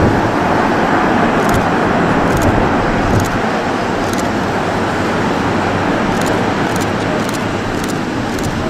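Loud, steady jet noise from the four CFM56 turbofans of an Airbus A340-300 on its landing, fading slowly.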